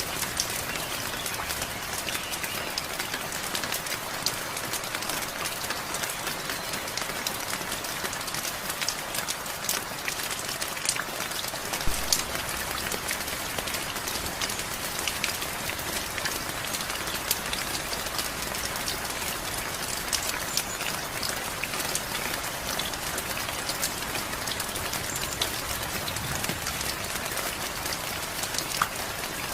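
Steady heavy rain, with many close individual drops ticking sharply over the hiss. There is one brief louder knock about twelve seconds in.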